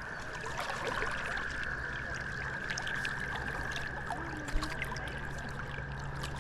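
Creek water running steadily over riffles, with a few faint ticks and small splashes.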